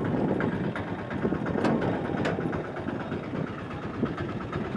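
Motor vehicle engine running amid busy road traffic noise.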